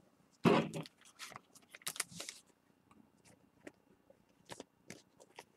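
Trading cards being handled and flipped through: faint scattered rustles and light clicks, busiest in the first couple of seconds and sparse afterwards, with one brief louder sound about half a second in.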